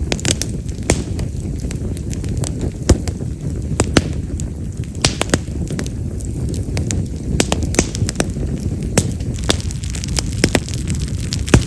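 Wood fire of split wild mountain cherry (yamazakura) logs burning with a steady low rumble of flames and frequent sharp crackles and pops, several a second and irregular, a few much louder and firecracker-like.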